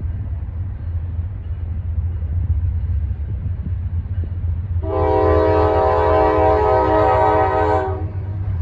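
Locomotive air horn sounding one steady chord of several notes for about three seconds, starting about five seconds in, over the low steady rumble of a train.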